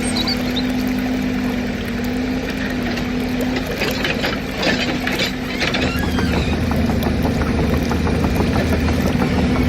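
Steady engine sound of a toy excavator running, with a held drone throughout and a deeper rumble joining about six seconds in. A brief patch of scratchy, gritty noise comes between about four and six seconds in.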